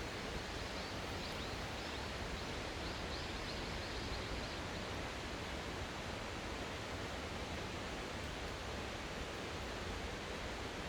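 Rushing water of a mountain stream in a gorge, a steady even rush.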